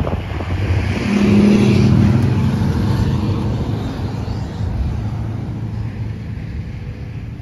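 A vehicle engine running, growing louder about a second in and then easing back to a steady drone.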